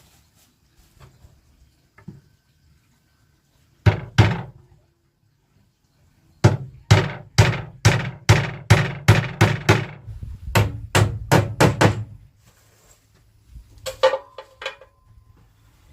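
Hammer blows on wood: two strikes, then a steady run of about fifteen blows at roughly three a second. A short sound with a ringing pitch follows near the end.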